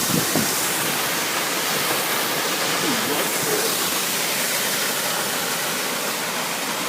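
Steady rushing roar of the Pistyll Rhaeadr waterfall plunging close by.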